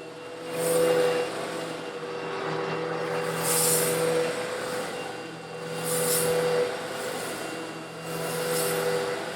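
Eureka vacuum cleaner running with a steady motor hum while sucking up coarse stone granules. The granules rattle and hiss through it in four surges, about every two and a half seconds.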